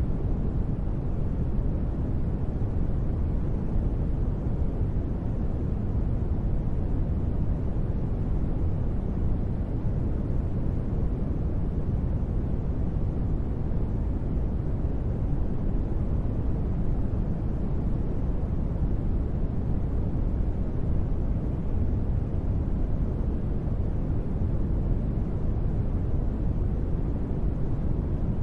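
Steady space-ambience noise bed: a deep, even hiss weighted to the low end and dull at the top, holding level without change.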